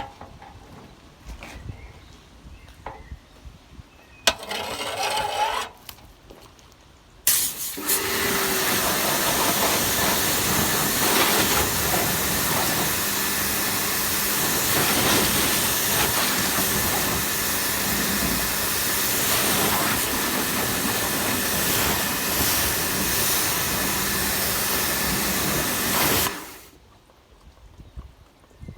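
A water jet rinsing an engine bay: a short spray burst, then a loud, steady hiss of spray that starts about seven seconds in and cuts off sharply near the end.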